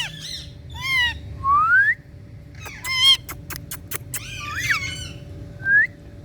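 Green Indian ringneck parrot calling: a series of short whistles and rising chirps, with a quick burst of sharp, clicky calls about three seconds in.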